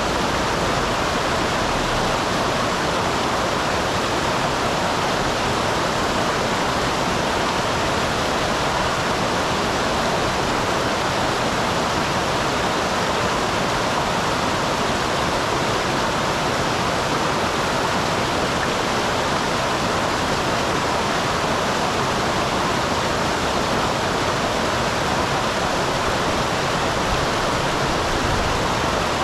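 Small waterfall on a mountain stream: water pouring and rushing steadily, an even hiss with no change.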